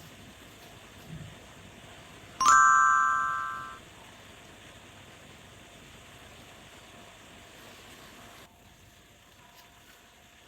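A single bright ding, like a small bell or chime struck once, ringing out and fading over about a second and a half.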